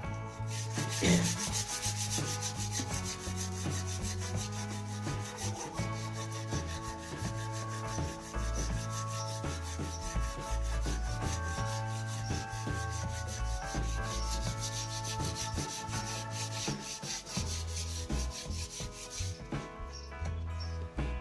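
Fine sandpaper being rubbed by hand along a wooden snooker cue shaft in quick, rapid back-and-forth strokes, a steady rasping hiss that stops near the end. Background music with a bass line plays underneath.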